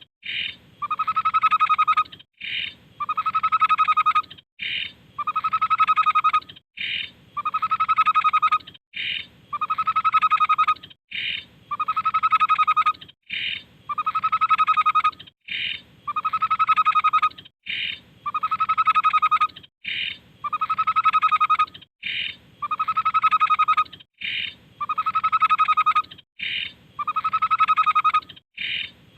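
Tepus babbler song: a short high note, then a longer, lower hooting note of about a second, repeated evenly about every two seconds.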